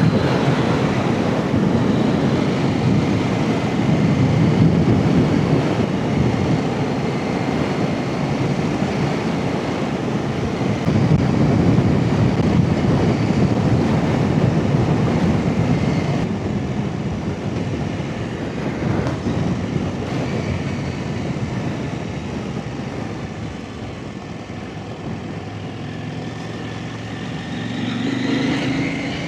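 Off-road trail motorcycle engine running while the bike is ridden along a lane, the engine note swelling and easing with the throttle; it quietens somewhat after about twenty seconds and picks up again near the end.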